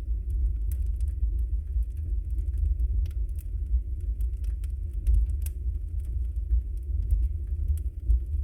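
Wood fire of burning logs in a fireplace: a steady low rumble of the flames with frequent sharp crackles and pops at irregular moments.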